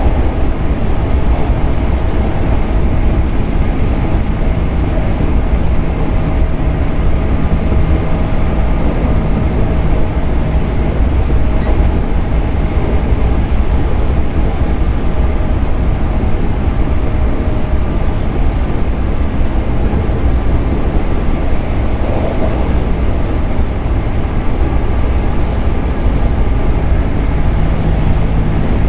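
JR 211 series 6000-subseries electric train running steadily at speed: a continuous rolling rumble of wheels on rail with a steady low hum from the train.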